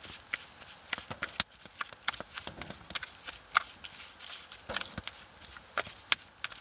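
Irregular sharp clicks and knocks, a few a second, with no steady rhythm.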